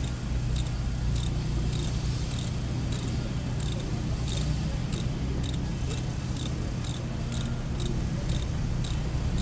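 Insect chirping in an even rhythm, about two short high chirps a second, over a steady low hum.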